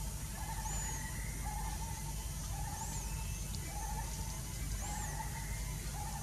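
Birds calling: one repeats a short note about once a second, and another gives a high, arched chirp every couple of seconds, over a steady low hum.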